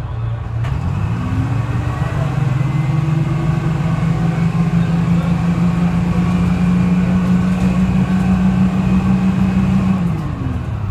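Detroit Diesel 6V71 two-stroke diesel engine of a GMC New Look bus revving up from idle about a second in and holding a steady note under load for several seconds, then dropping back to its idle pitch near the end.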